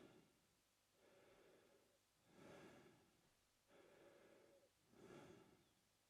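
A man breathing slowly in and out through his mouth: two full breath cycles, each breath lasting about a second, with the breaths alternating between softer and stronger.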